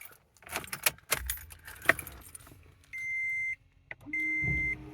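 Keys jangling and clicking in a 2009 Toyota Tacoma's ignition, then the dashboard warning chime beeping steadily from about three seconds in, roughly one short beep a second.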